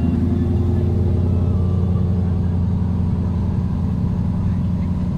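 An engine running steadily at low revs, a deep even drone with a fast firing pulse.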